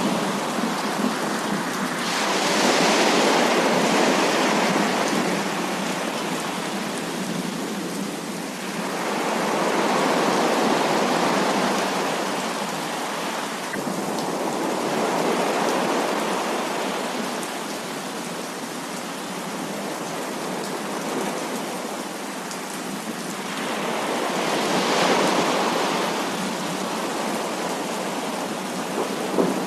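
Heavy rain falling in a steady hiss, swelling louder three times in slow waves.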